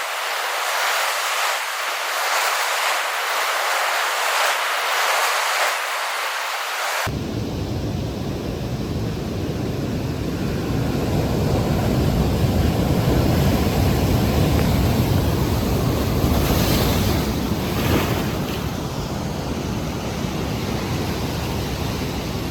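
Ocean surf and white water rushing in a steady noisy wash, with wind buffeting the microphone. For the first seven seconds the sound is a thin hiss with no low end. It then changes abruptly to a fuller, rumbling wash with heavy wind noise.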